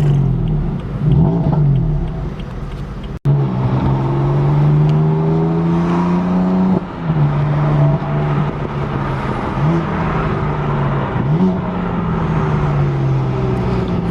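BMW M4's twin-turbo straight-six with downpipes, heard from inside the cabin: the engine note climbs steadily under acceleration, drops sharply at a gear change about seven seconds in, gives two short revs, then falls away as the car slows. The sound cuts out for an instant about three seconds in.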